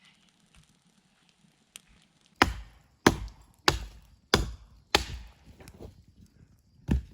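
Wood being chopped: five strokes in a steady rhythm about two-thirds of a second apart, starting about two seconds in, then a pause and one more stroke near the end.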